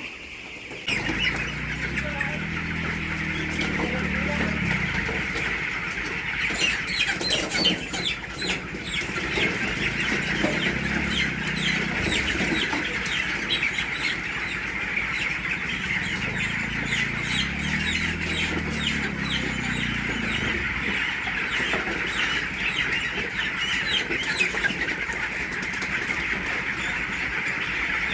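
Flock of chickens calling steadily in a dense, overlapping chorus of clucks and peeps, starting about a second in. A low humming tone swells up and fades away twice underneath.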